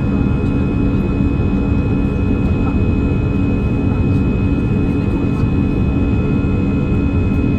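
Steady cabin noise of an Airbus A321 in flight: the jet engines and airflow make a constant low rumble, with a steady hum and a thin high whine held throughout.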